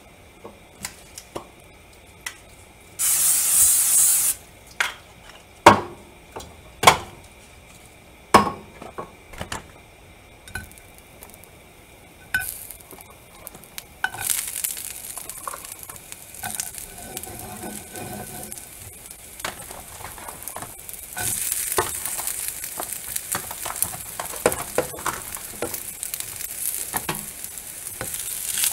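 Leftover fries and onion rings sizzling as they reheat in a nonstick frying pan, with clacks of metal tongs turning them; the sizzle sets in about halfway through and grows louder later. Earlier there is a short, loud hiss lasting about a second, then a few sharp clacks.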